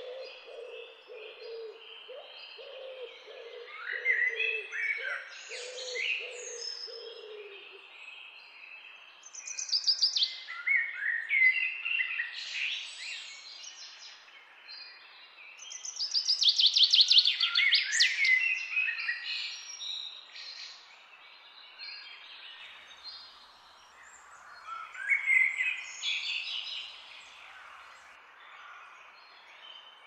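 Several birds singing and chirping, with bursts of rapid trilling every few seconds. A low hooting call repeats over the first eight seconds.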